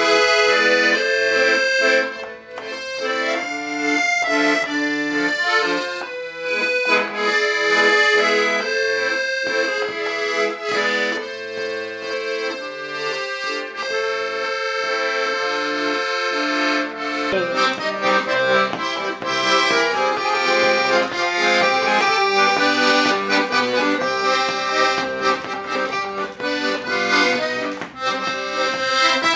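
Piano accordion playing a tune with reed melody over chords; about seventeen seconds in the sound changes to a fuller, denser texture with more low bass notes.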